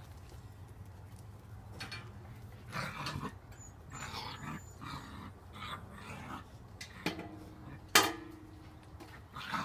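Puppies play-fighting: scuffling and short dog noises in irregular bursts, with one sharp, short sound near the end.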